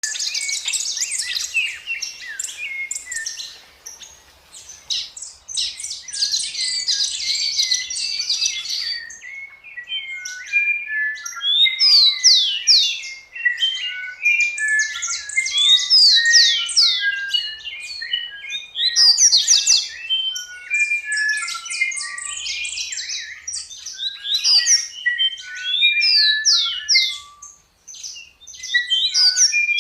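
A flock of many birds chirping and calling together, dense overlapping twitters and quick falling whistled notes, with no let-up apart from a brief dip near the end.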